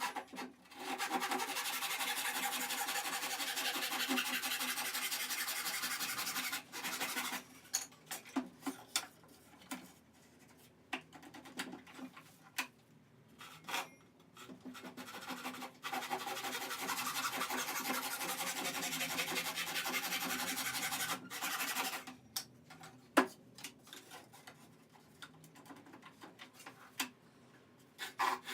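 Steady rubbing on a wooden board in two long spells of about five seconds each, with short strokes and knocks scattered between them and one sharp knock near the end.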